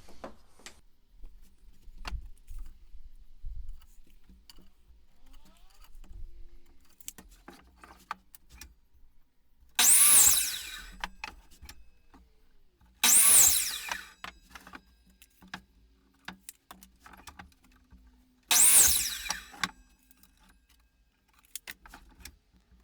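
Power miter saw cutting 2x4 lumber: three short cuts, each about a second, the motor whine rising and falling. Light clicks and knocks of the wood being handled between the cuts.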